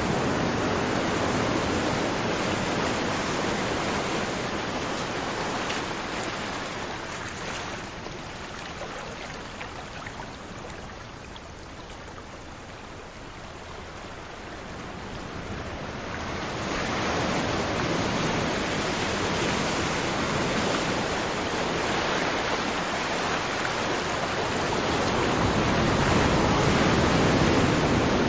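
Ocean surf: a steady wash of breaking waves that ebbs away near the middle and swells back up after about sixteen seconds.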